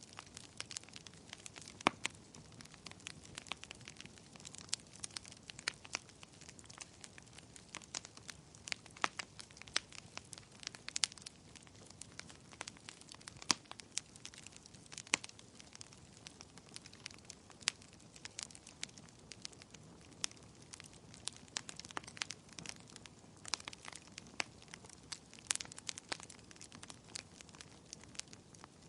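Wood fire crackling: a steady low hiss with irregular sharp snaps and pops, several a second.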